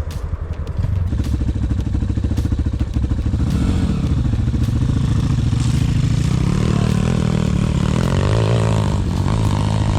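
Single-cylinder pit bike engine running under throttle: it picks up about a second in and revs higher a couple of times as the bike rides on.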